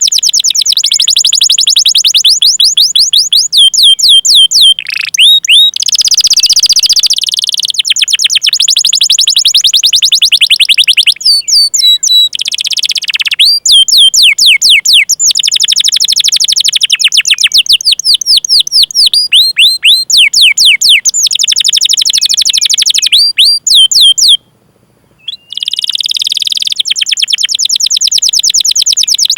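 Domestic canary singing long rolling trills: fast runs of sharp falling chirps, about ten a second, strung into phrases with a few harsher buzzing notes. The song stops for about a second late on, then carries on.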